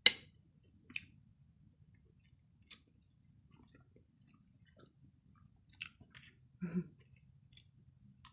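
Close-up mouth sounds of someone chewing longganisa sausage: scattered wet smacks and small clicks. A sharp click comes right at the start, and a short low hum about two thirds of the way through.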